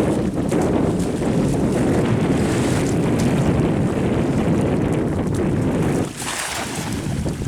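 Wind buffeting the microphone over open water, a steady low rumble. About six seconds in it drops briefly, with a short higher hiss.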